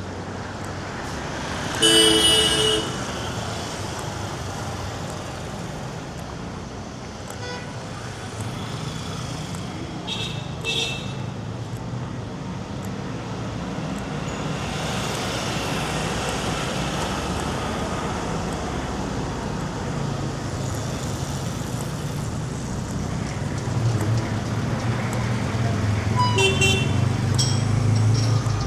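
Street traffic with vehicle horns. A loud horn blast comes about two seconds in, with shorter toots around ten seconds and again near the end. Under them runs the steady sound of passing engines, which grows louder near the end as a vehicle draws close.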